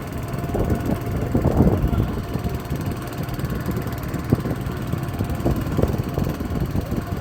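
Honda engine of a motor boat running steadily.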